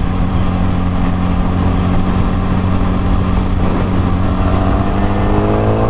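Yamaha R6's inline-four engine running at a steady speed while being ridden, its note rising slightly near the end.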